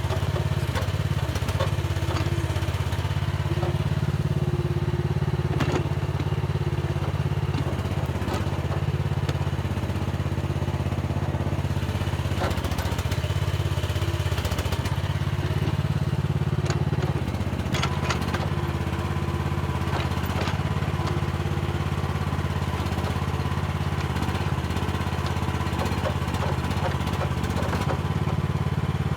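Mini excavator's diesel engine running steadily while it digs. Scattered knocks and scrapes from the bucket working the soil come through, mostly around the middle of the stretch.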